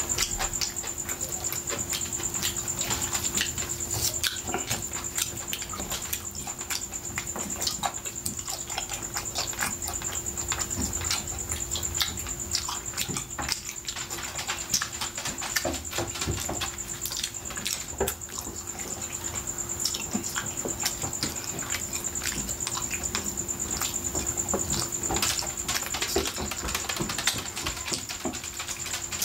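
Close-miked eating of roast chicken: wet chewing, lip smacking and sticky clicks of the mouth and fingers, coming thick and irregular. A faint steady high-pitched whine sits underneath.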